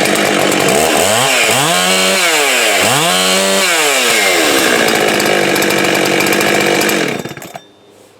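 Stock Husqvarna 390 two-stroke chainsaw, restarted warm and running: revved up twice to a brief high hold and dropped back, then idling steadily before it is switched off about seven seconds in. A warm restart like this is a check on the saw's low-speed carburettor tune.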